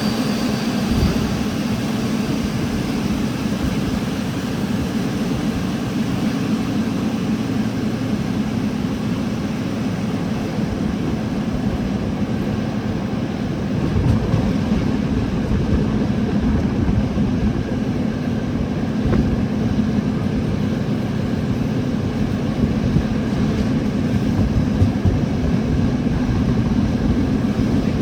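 Train running into the station: a steady low rumble and hum that gets louder about halfway through as it draws nearer.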